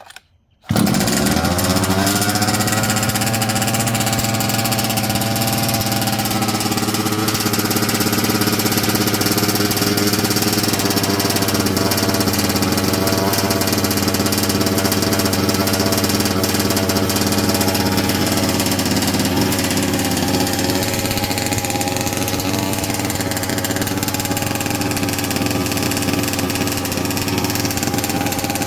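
36cc Rovan two-stroke engine of a 1/5-scale RC truck starting with the choke off, catching within the first second, then settling into a steady idle.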